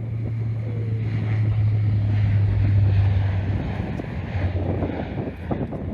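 Jet airliner passing close by, its engine noise swelling to a peak about three seconds in and then easing, with wind buffeting the microphone.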